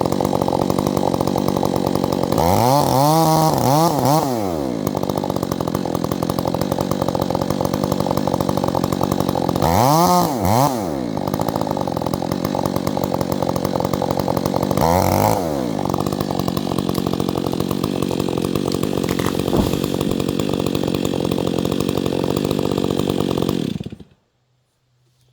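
Petrol chainsaw running steadily, with its engine revving up and back down three times, then shutting off abruptly near the end.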